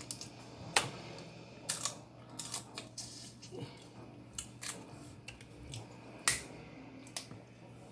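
Close-up mouth sounds of someone eating snow crab legs: a string of sharp, irregular lip-smacking clicks over a faint steady hum.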